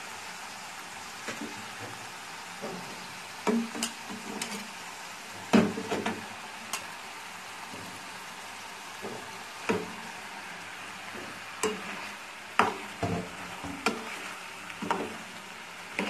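Keema, tomato and green chilli masala sizzling steadily in a frying pan, with a dozen or so sharp knocks and scrapes of utensils against the pan as boiled spinach is added and a metal slotted spatula works it in.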